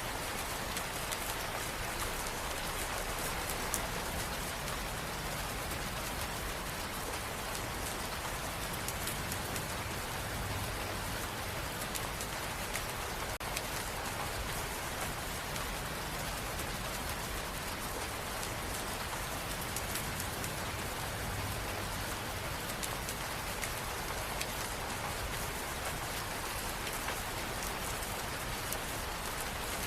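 Steady rain falling, an even hiss with the fine patter of drops striking a surface.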